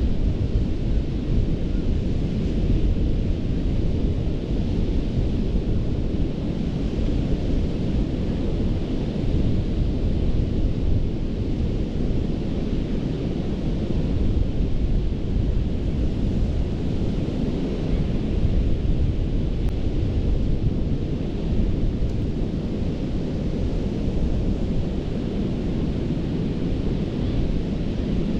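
Ocean surf breaking and washing up a sandy beach: a steady roar of waves with a deep rumble underneath and a hiss of wash that swells and fades slowly.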